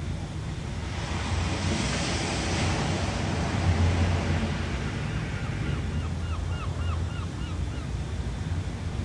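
Ocean surf: waves washing in over a steady low rumble, with one wave swelling louder about two seconds in. Near the middle, a quick run of about a dozen short high chirps rises and falls over a few seconds.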